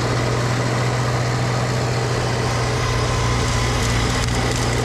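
Snowblower engine running steadily, a constant low drone with an even rushing noise over it.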